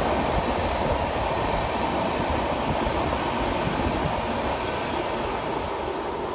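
A passenger train's LHB coaches rolling past at speed: a steady rumble and rush of wheels on rail that eases slightly as the last coach goes by near the end.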